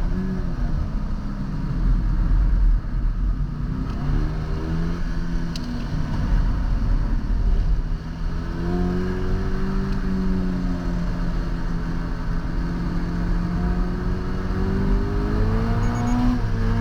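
Toyota GR86's 2.4-litre flat-four engine pulling hard on a wet lap, heard from inside the car: its pitch rises and falls in the first few seconds, holds steady for several seconds from about halfway, then climbs again near the end, over a constant low rumble.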